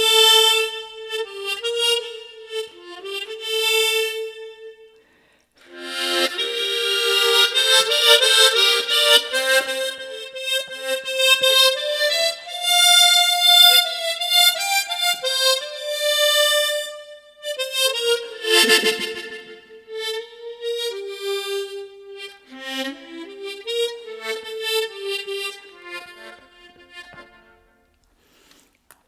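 Solo tremolo harmonica playing a slow melody, the notes full of overtones. It breaks off briefly about five seconds in, then comes back louder and fuller, and pauses again near the end.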